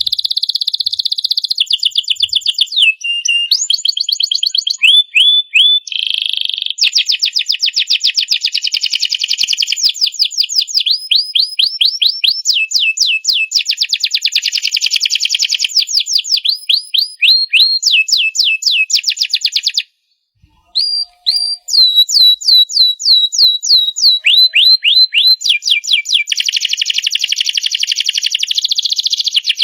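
Domestic canary singing a long, loud song of very fast rolling trills and runs of repeated falling whistled notes, with a short pause about two-thirds of the way through.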